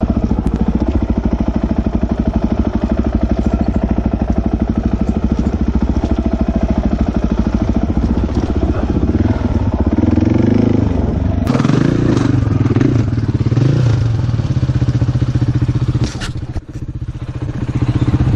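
Dirt bike engine running while riding, revs rising and falling through the middle with a short drop in level near the end as the throttle is eased off, then building again.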